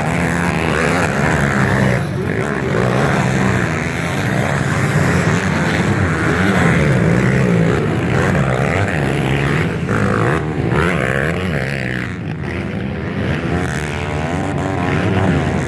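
Several motocross bike engines racing together, revving up and down steadily as the riders work the throttle and shift.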